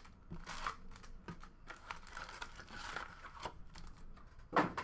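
Trading-card pack wrappers being torn open and crinkled while cards are handled and stacked, in short irregular rustles, with one louder rustle near the end.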